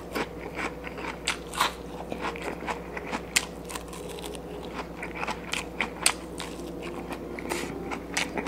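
Close-up eating sounds: a person biting and chewing crisp fried butterfish, with many irregular crunches and mouth clicks over a faint steady hum.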